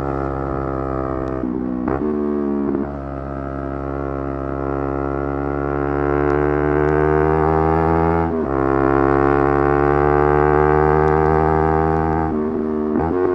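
Yamaha R3's 321 cc parallel-twin engine running at high revs under hard acceleration, its pitch climbing steadily and dropping briefly about two, eight and twelve and a half seconds in as gears change.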